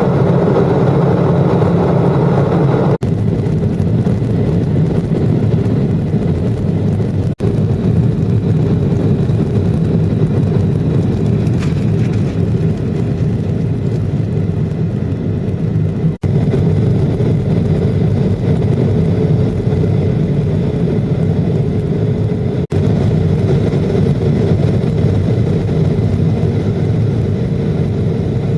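Jet airliner cabin noise during landing: a steady, deep rumble of engines and airflow heard from inside the cabin. The higher part of the noise falls away about three seconds in, and the sound cuts out for an instant a few times.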